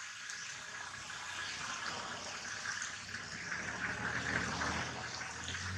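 Steady hiss of rain falling, growing a little louder through the middle and second half.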